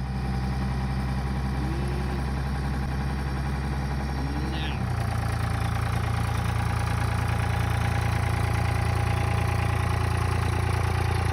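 1999 Dodge 2500's 5.9-litre 24-valve Cummins diesel idling shortly after a below-zero cold start. About five seconds in, the idle note changes abruptly and gets a little louder, as part of the engine's cold-weather three-cylinder high-idle routine.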